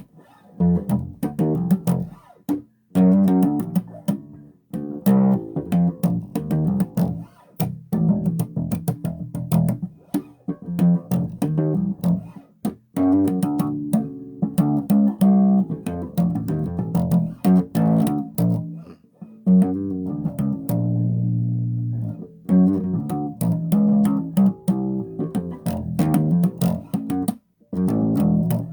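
Electric bass guitar played through an amp: runs of plucked notes in phrases with short breaks, each note starting with a sharp click. The tone still carries some fuzz that the player wants cleaner.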